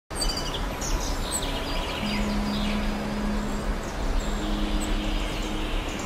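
Several small songbirds singing in short, scattered chirps and trills over a steady background of low rumble and hiss, with a faint steady low hum.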